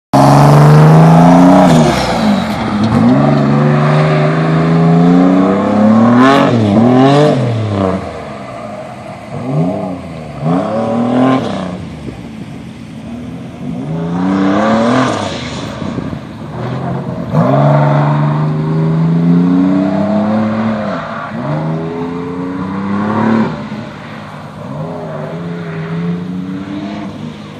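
Turbocharged 3800 V6 in a Chevy Blazer running hard through an autocross course, its revs climbing and dropping again and again as it accelerates, lifts and shifts. Loudest at the launch, then fainter as it moves away.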